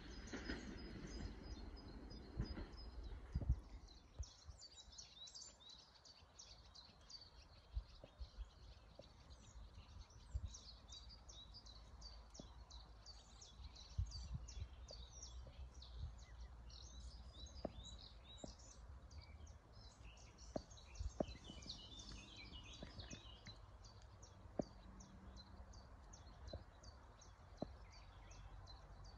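Small birds chirping and singing in many short high calls. A low train rumble fades away over the first few seconds.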